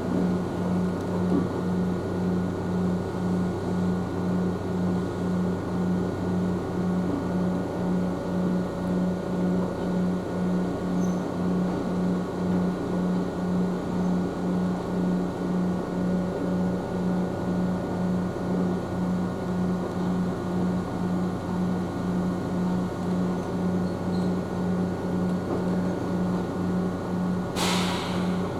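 Steady hum of an Ohmi Railway electric train's onboard equipment, pulsing evenly about one and a half times a second, with a short burst of hiss near the end.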